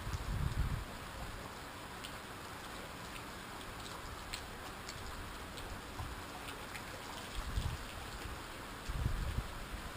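Rain falling: a steady hiss with scattered individual drops ticking, and brief low rumbles at the start and near the end.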